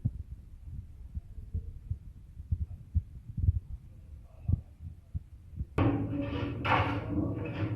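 Irregular low thumps and rumble of air or handling buffeting the microphone. About six seconds in, a much louder mix of steady hum and noise bursts starts abruptly.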